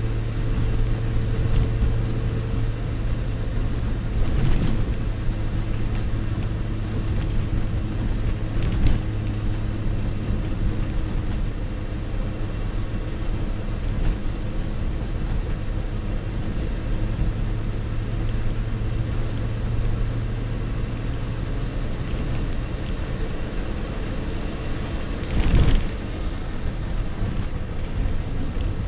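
DKW-Vemag Belcar's three-cylinder two-stroke engine running steadily as the car drives, heard from inside the cabin with road noise. A short loud knock comes about three quarters of the way through.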